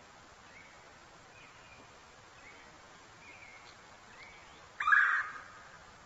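Faint, short bird chirps about once a second, then one loud, short bird call about five seconds in.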